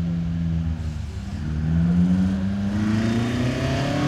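A hillclimb competition car's engine held at steady revs, then rising in pitch from about a second in as the car pulls away off the start line and builds speed gently on a low-grip surface.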